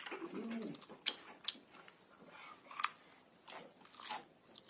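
A person chewing food close to the microphone, with about five sharp, crunchy clicks spread through the chewing.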